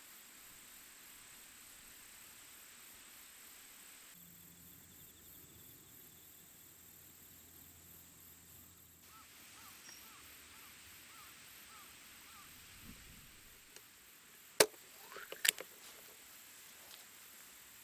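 Steady, faint high-pitched chirring of autumn insects. Near the end come two loud, sharp knocks about a second apart, the second followed by a few smaller clicks.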